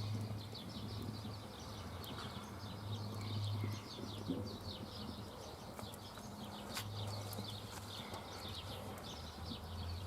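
Outdoor ambience of rapid, continuous high-pitched chirping calls, with a low hum that comes and goes and a few sharp pops, the loudest about seven seconds in.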